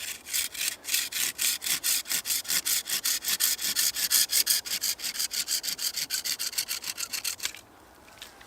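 Saw cutting through a green wooden peg plugged into a birch trunk, in quick, even back-and-forth strokes, about six a second, that stop about a second before the end.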